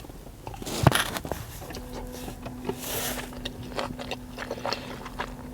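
A person biting into and chewing a piece of king salmon sushi roll close to the microphone: a run of soft wet clicks and smacks, with a sharper snap about a second in. A faint steady hum comes in about two seconds in.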